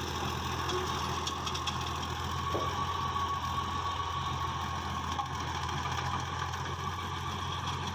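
Fiat 480 tractor's diesel engine running steadily under load, driving a 54-cut rotavator through a wet field, with a faint constant whine above the engine.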